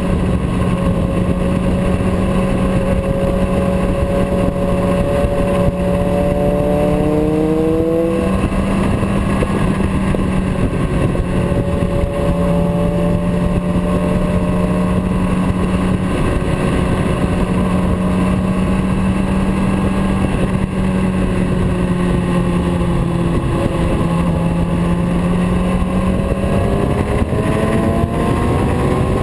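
Motorcycle engine running under way with a steady rushing noise. Its pitch rises twice as it accelerates, once about a quarter of the way in and again near the end.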